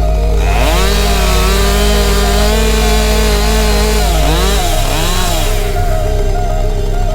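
Chainsaw running under load: it revs up about half a second in, holds high while cutting, then drops back and revs up and down again near the end.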